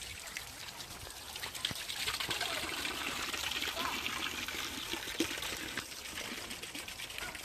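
Water trickling steadily, a little louder from about two seconds in, with a few short faint chirps over it.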